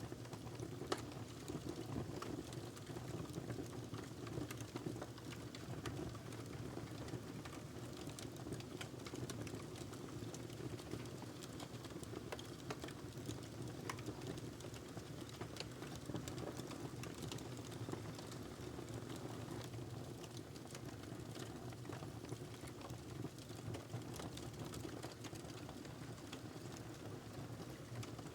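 Wood fire crackling in a fireplace: a steady low rumble of burning with frequent small irregular pops and snaps.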